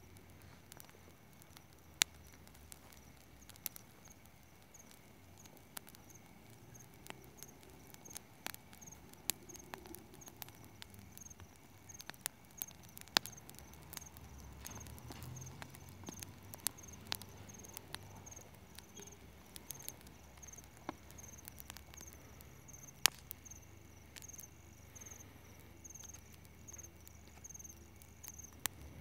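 Bonfire of dry garden grass crackling, with irregular sharp pops, a few of them loud. Behind it a cricket chirps steadily, its high chirp evenly repeated.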